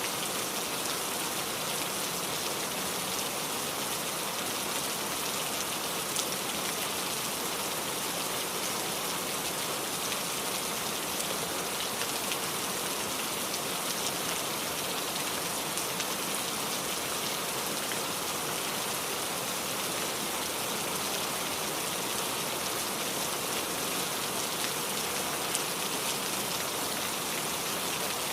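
Steady rain falling on a surface, an even hiss with scattered individual drops.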